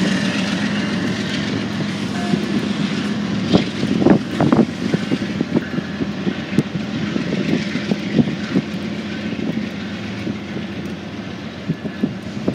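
Freight train cars rolling past: a steady rumble with irregular wheel clicks and clanks, loudest about four seconds in.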